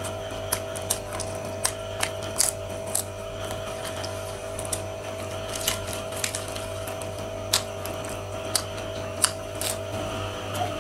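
Close-up mukbang eating sounds: irregular crisp clicks and smacks of chewing floured, fried shrimp and lettuce, about one or two a second, over a steady low hum.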